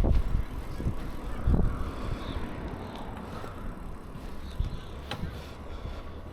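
Bicycle riding noise: a low rumble of wind and road noise, loudest at the start and easing off, with a sharp click about five seconds in.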